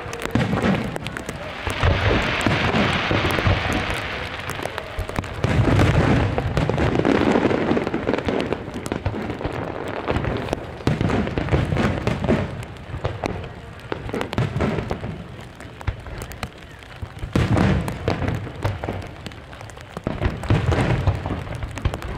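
Large aerial fireworks display: a run of firework shells bursting with deep booms and sharp bangs, some in quick clusters, and a hissing crackle from crackling stars a couple of seconds in.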